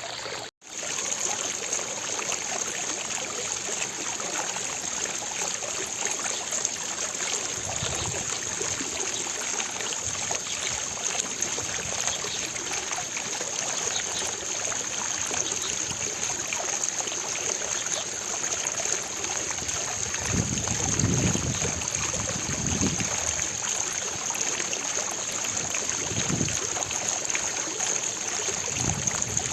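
Fountain water splashing and trickling steadily, with a brief cut-out about half a second in and a few soft low rumbles later on.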